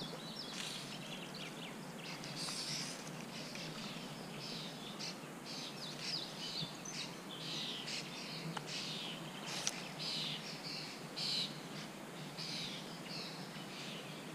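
Songbirds chirping and singing many short, varied phrases over a steady low hiss, with one sharp click about two-thirds of the way through.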